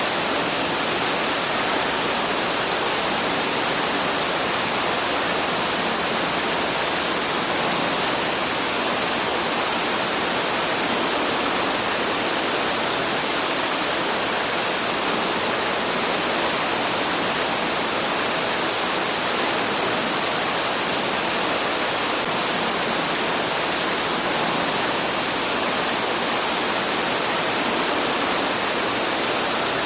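Waterfall rushing in a steady, unbroken hiss, with most of its weight in the higher range and no change in level.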